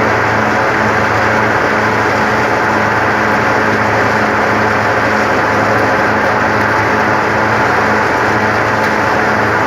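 Hazelnut thresher (patoz) running steadily: a loud, even mechanical drone with a constant engine hum and no change in speed.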